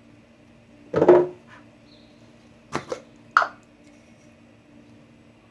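Kitchen dishes and utensils being handled: a loud knock with a brief ring about a second in, then a quick pair of clicks and another sharp knock, over a faint steady hum.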